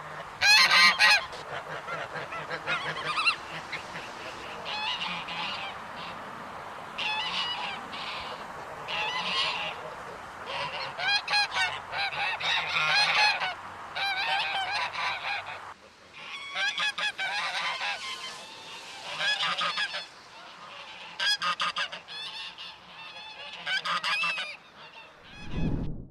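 Geese honking repeatedly, several birds calling over one another in short clusters, with a brief lull about two-thirds of the way through.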